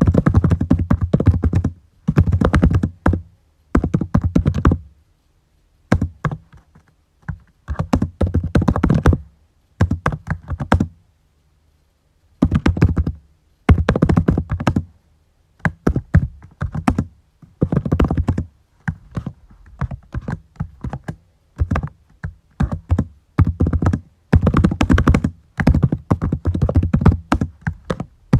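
Typing on a computer keyboard in bursts of rapid keystrokes, broken by short pauses of a second or so, with one longer pause about halfway through.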